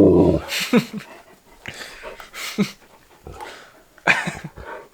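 Dogs panting and whining in short, irregular bursts.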